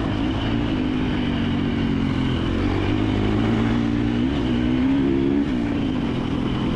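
KTM 350 XC-F dirt bike's single-cylinder four-stroke engine running under varying throttle on a trail, the revs rising and falling a couple of times.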